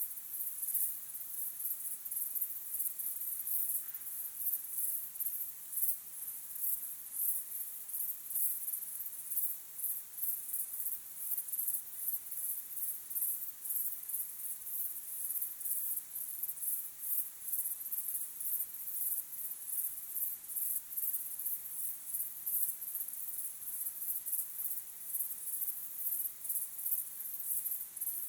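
A chorus of crickets chirping at dusk: a dense, high-pitched pulsing that carries on steadily without a break.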